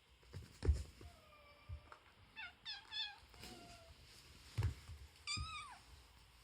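Kittens play-wrestling: a quick run of short, high mews about two and a half seconds in and a longer mew that falls off at its end near the finish, with dull thumps near the start and about four and a half seconds in.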